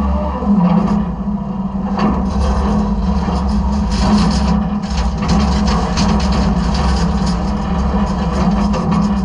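Side-loader garbage truck's engine running steadily, heard from inside the hopper, with frequent knocks and rattles of metal and trash.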